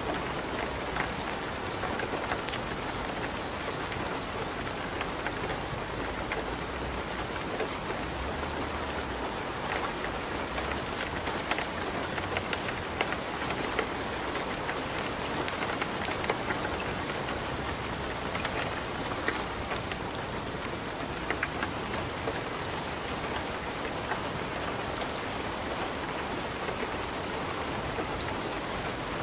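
Wood fire burning in a fireplace: a steady hiss with sharp, irregular crackles and pops.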